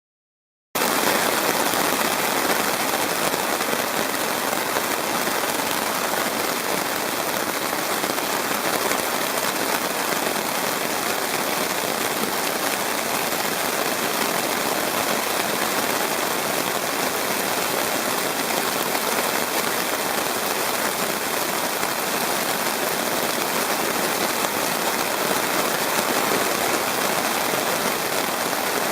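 Heavy, torrential rain falling steadily, cutting in abruptly from silence about a second in.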